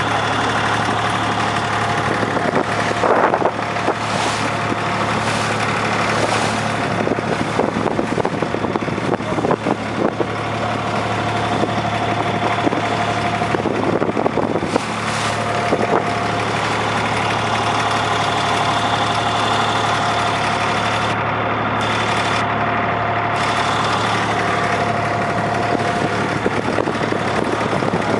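Boat engine running steadily, a constant low hum with a steady higher whine, and a few short knocks in the first half.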